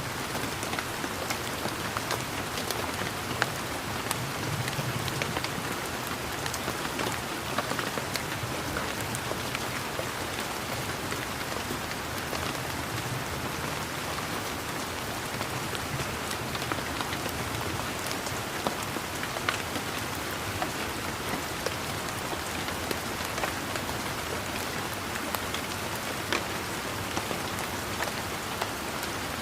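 Steady rain falling on leaves and surfaces, an even hiss dotted with the sharper taps of individual drops.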